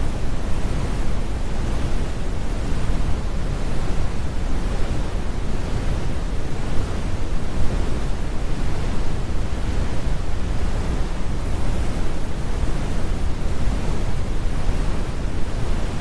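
Steady synthesised brown noise: a constant deep rumble with the highs rolled off, with no changes or events.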